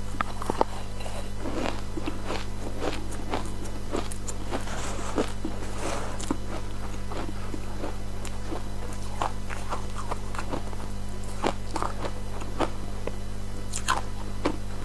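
Ice being crunched between the teeth close to the microphone: irregular crisp cracks, a few a second, over a steady low electrical hum.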